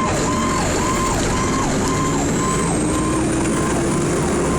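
Fire engine's siren in a fast yelp, rising and falling about twice a second, over the rumble of the truck's engine and road noise.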